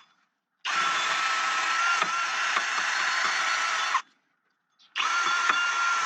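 Electric drill spinning a wire brush against the bare metal wheel hub to clean it, with a steady whine. It runs for about three seconds, stops sharply, and starts again about a second later.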